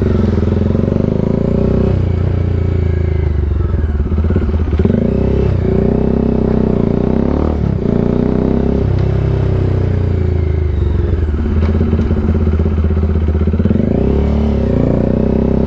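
Bajaj Dominar 400's single-cylinder engine running through an SC Project aftermarket exhaust as the bike is ridden. The engine note drops and picks up again several times as the throttle is eased and reopened.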